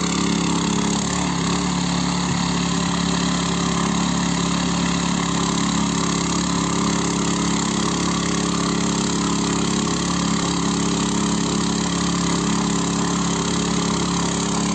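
Small petrol engine of a walk-behind motor cultivator running steadily as the machine tills soil.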